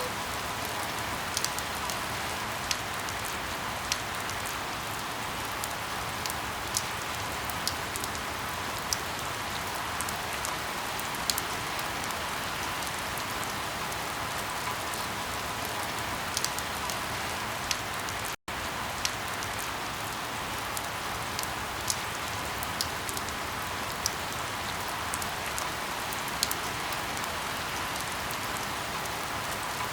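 Steady rain falling, with individual drops ticking sharply now and then over the even hiss. The sound drops out for an instant about eighteen seconds in.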